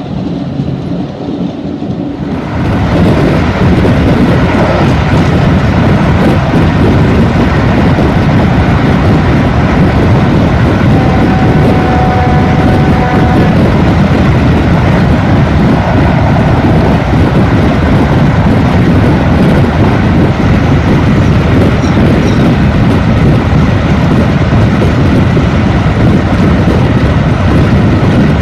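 Hastings diesel-electric multiple unit running at speed, heard from an open window: a loud, steady rush of wheels on rail, engine and wind that comes in suddenly about two and a half seconds in, after quieter running.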